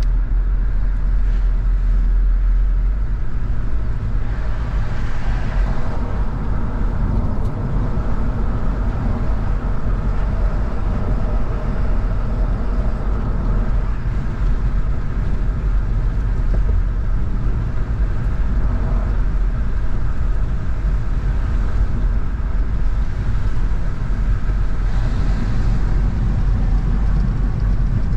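A car driving along a road: steady engine and tyre rumble with road noise, with a brief swell of hiss about five seconds in and again near the end.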